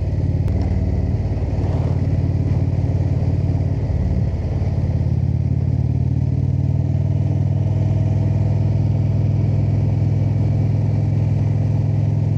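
Indian V-twin motorcycle engine running under way, heard from the bike itself. It briefly changes pitch just after the start and again about four seconds in, as with a throttle or gear change, then holds a steady cruise.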